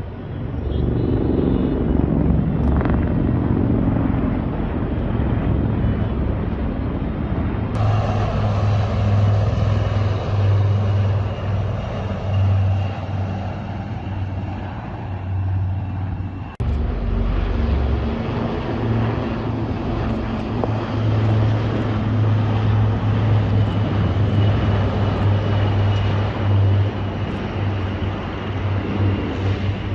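Aircraft engines droning steadily during an airshow flypast, with a strong low rumble. The sound changes abruptly twice, about 8 and 16 seconds in.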